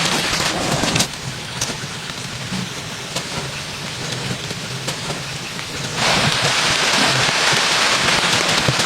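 Heavy rain falling in a steady hiss with a few scattered drips or knocks; about six seconds in it abruptly becomes louder and denser.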